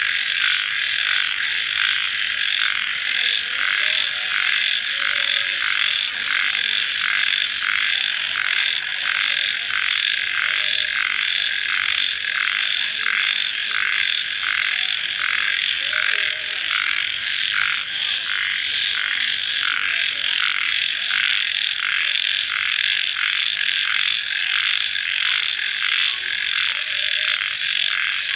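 Dense night-time chorus of many calling animals, a steady high-pitched trilling that pulses evenly about twice a second without a break.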